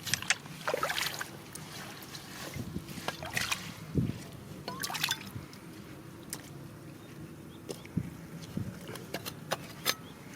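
Water sloshing and trickling, with scattered sharp clicks and knocks, the busiest in the first second and one louder knock about four seconds in.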